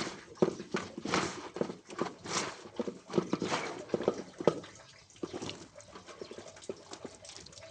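Irregular knocking and clattering mixed with short rustling scrapes, busy for the first four seconds or so, then thinning out.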